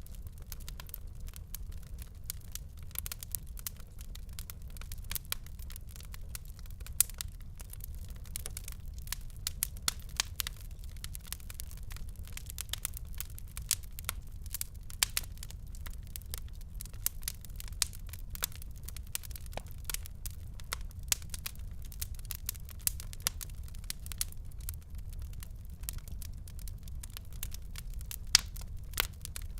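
Fireplace fire crackling: dense, irregular sharp pops and snaps, several a second with an occasional louder one, over a steady low rumble.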